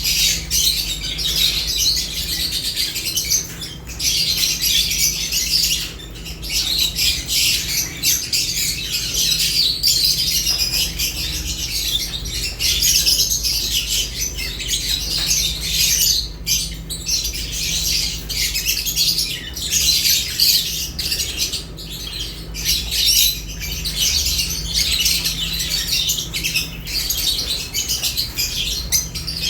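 Several lovebirds chirping and squawking in a dense, continuous high-pitched chatter.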